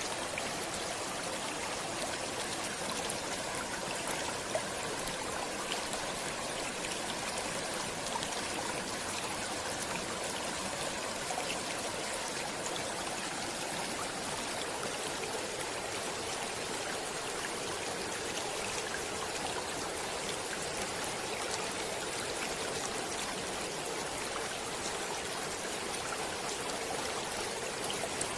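Water in a stream flowing steadily, an even rushing flecked with many small splashes and trickles.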